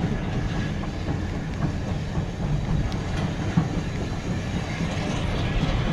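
Gerstlauer Euro-Fighter roller coaster train running on its track, heard from on board: a steady rumble of wheels with scattered clattering clicks.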